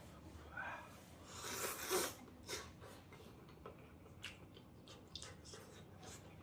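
A short noisy slurp of ramen noodles about two seconds in, among scattered light clicks of utensils against a bowl.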